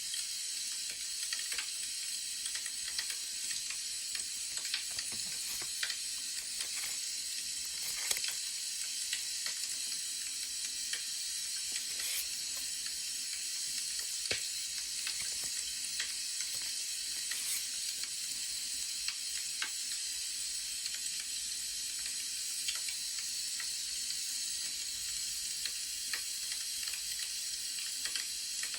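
Crackling wood fire: a steady hiss with scattered sharp pops and snaps.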